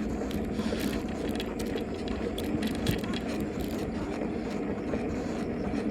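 Steady rushing wind and road noise from riding a bicycle, with scattered light rattling clicks from the bike.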